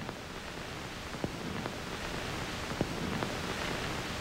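Steady hiss with a few faint scattered clicks, the background noise of an old film soundtrack.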